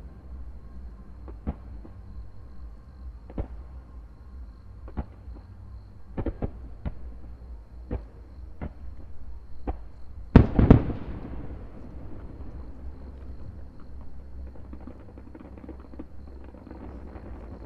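Fireworks shells bursting in the sky: sharp bangs every second or so, then one much louder boom a little past the middle with a long rumbling echo, and more bangs near the end.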